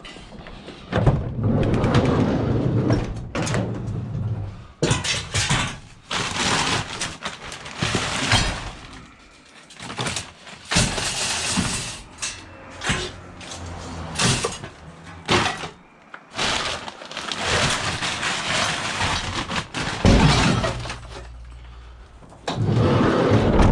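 Scrap metal items such as pots being handled and dropped, with repeated irregular clattering and clanking crashes.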